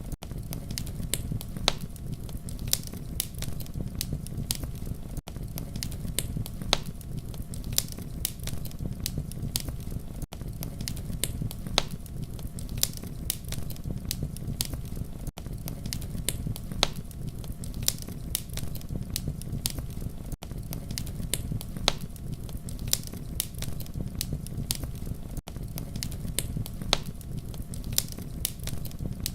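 Campfire crackling: a steady low rumble of burning under frequent sharp pops and snaps. There is a very brief dropout in the sound about every five seconds.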